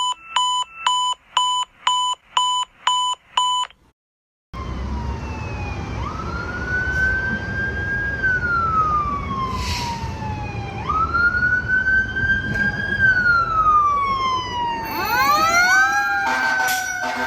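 Rapid electronic beeping, about two to three beeps a second, for the first few seconds. After a short break comes a fire engine's siren wailing slowly up and down over the rumble of the truck's engine. Near the end several siren sweeps overlap and a horn blast sounds.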